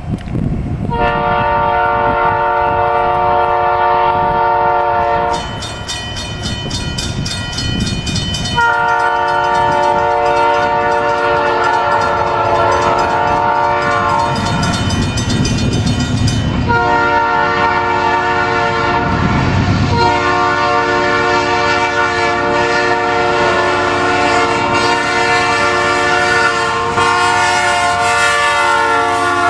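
Nathan Airchime P3 three-chime air horn on a CP Rail freight locomotive sounding in long blasts: one of about four seconds, a gap, one of about eight seconds, then a long held blast that runs on, over the rumble of the passing train.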